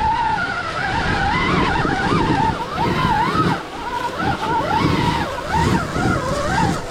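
Stark Varg electric dirt bike's motor whining, its pitch rising and falling over and over with the throttle, over a steady low rumble.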